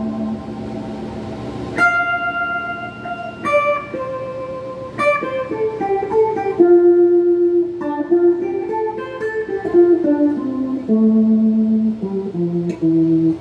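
Donner '72 Thinline-style semi-hollow electric guitar, with a phaser and Klon-clone overdrive in its signal chain, played through a Peavey Backstage Plus amp. It plays a melodic single-note line, each note picked and left to ring before the next.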